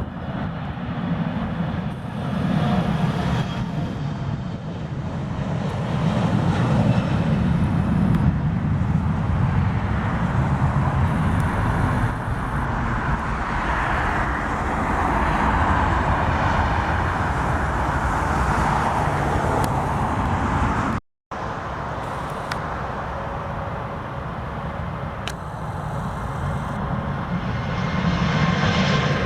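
Steady roar of jet aircraft engines at the runway, swelling around the middle. The sound drops out for an instant about two-thirds of the way through.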